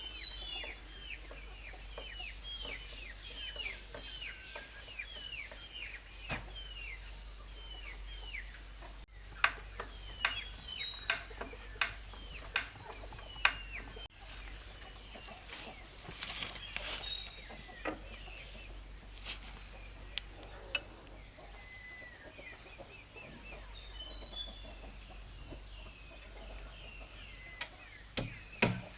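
Birds calling: quick repeated falling chirps, busiest in the first few seconds, with short bursts of higher notes now and then. Scattered sharp knocks come through, several in a row around the middle and a couple near the end.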